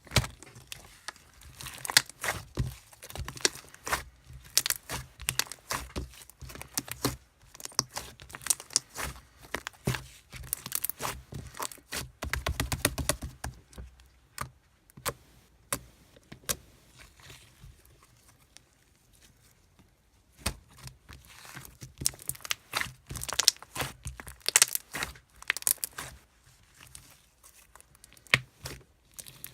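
Close-up crinkling, crackling and tearing of thin material such as paper, plastic or tape being handled, in irregular clusters of sharp crackles with a quieter spell in the middle.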